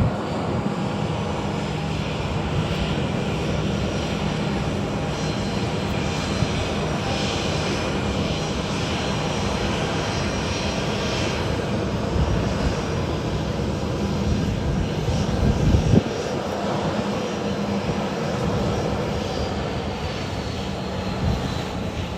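Jet airliner engines running with a steady roar and a faint high whine, swelling a little and then dropping off suddenly about two-thirds of the way through.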